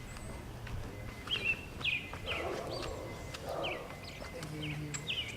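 A bird calling: a series of short, quickly falling chirps, about two a second, starting about a second in.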